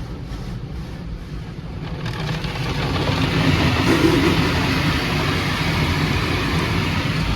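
Automatic car wash equipment heard from inside the car, with a constant low rumble. About two seconds in, a steady rushing hiss of spray or air builds up and holds.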